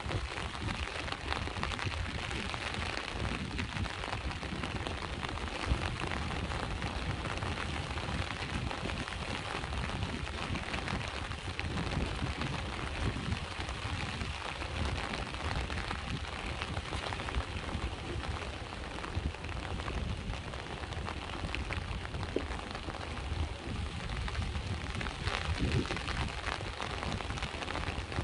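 Rain falling steadily with sea waves washing beneath it: a constant hiss peppered with small drop ticks over a low rumble.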